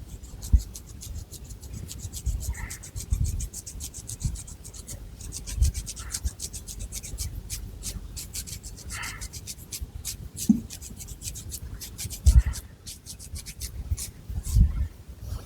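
Long fingernails scratching through thick hair and over the scalp in quick, rapid strokes, thickest over the first half and sparser later. Dull low thumps come now and then.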